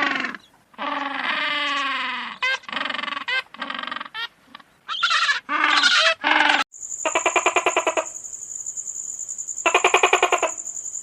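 A series of short pitched animal calls with gaps between them, then, after a cut, a steady high whine with two bursts of rapid, evenly spaced pulsing.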